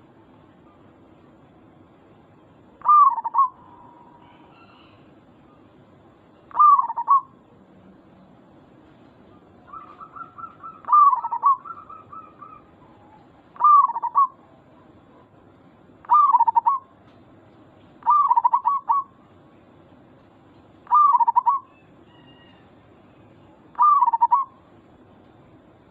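Zebra dove (perkutut) cooing: a short, repeated coo phrase comes about every two and a half to three seconds. Around ten seconds in, a longer run of quick notes leads into one of the phrases.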